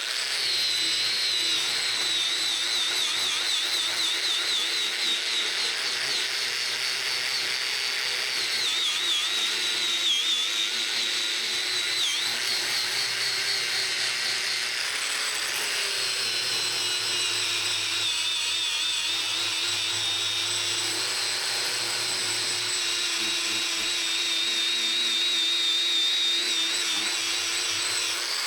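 Small power tool running steadily on metal, a high wavering whine with a few brief dips in pitch around a third of the way in.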